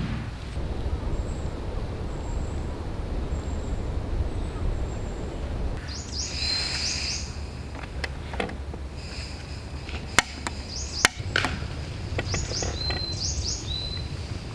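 Small birds chirping in short bursts over a steady outdoor background noise, with a few sharp clicks, the loudest two about ten and eleven seconds in.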